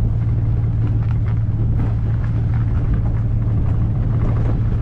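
A car's engine and road noise heard from inside the cabin: a steady low drone with frequent small knocks and rattles as it drives over a rough road surface.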